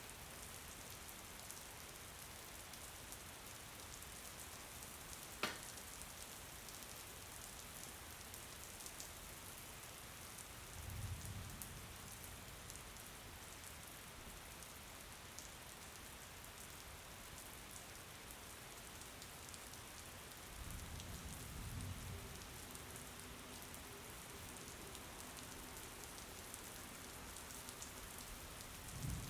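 Steady rain falling, an even hiss throughout. A single sharp click comes about five seconds in, and low rumbles rise and fade three times: near the middle, about two-thirds through, and at the very end.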